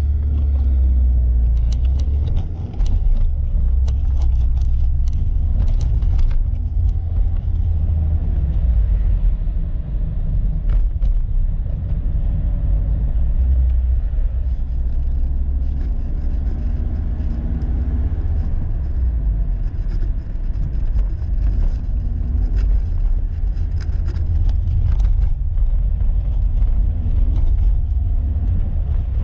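BMW E36 Compact's M43 four-cylinder engine running with a heavy low rumble, its note drifting up and down as when driving.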